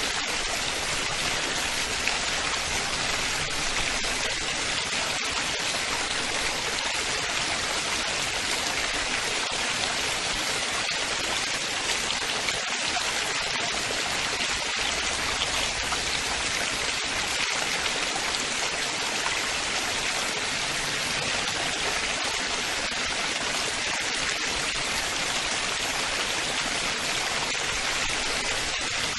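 Running water splashing steadily, an even hiss strongest in the upper range.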